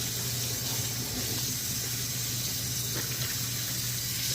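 Water running steadily, an even rushing hiss like a tap filling a sink or bucket, with a low steady hum underneath.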